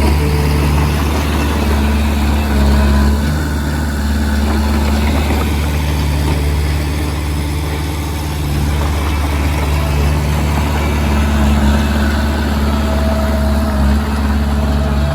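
Komatsu D20P bulldozer's diesel engine running steadily, a deep engine note that eases slightly about halfway through.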